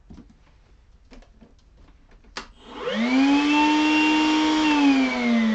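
A switch click, then a vacuum cleaner motor spins up to a steady whine, holds for about two seconds, and is switched off, its pitch falling as it winds down.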